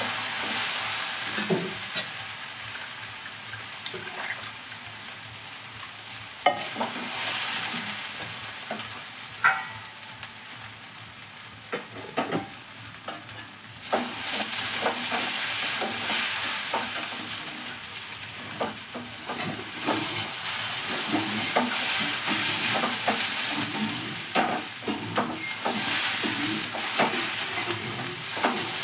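Food frying in a metal kadai and being stirred with a metal spatula: a sizzle that swells and fades as the mixture is turned, with scattered clicks and scrapes of the spatula against the pan.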